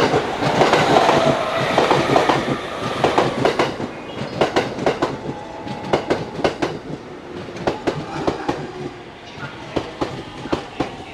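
E231-series electric commuter train running past, its wheels clacking over the rail joints in pairs. The rolling noise fades and the clacks come further apart as the train slows.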